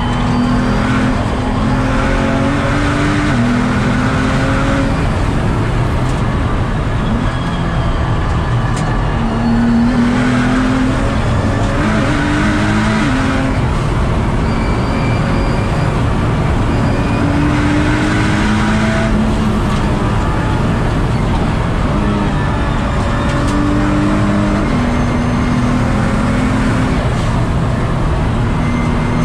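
Nissan GT-R R35's twin-turbo V6 engine driven hard on track, heard from on board. Its pitch climbs through each gear and drops back at every upshift or lift, again and again.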